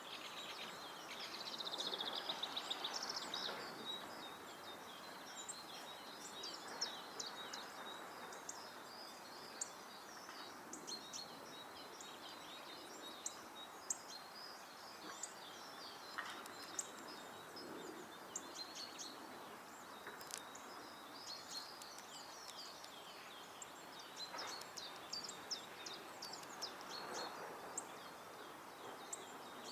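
Small garden songbirds chirping and calling around a feeder, a scatter of short high notes throughout, with a fast trill about a second in, over a steady outdoor background noise.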